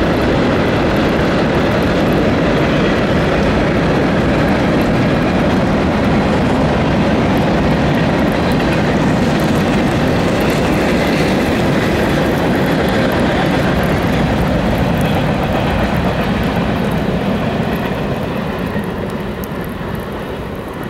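Freight train cars, mostly tank cars and boxcars, rolling past on the rails with a steady rumble of wheels on track. The sound fades over the last few seconds as the end of the train moves away.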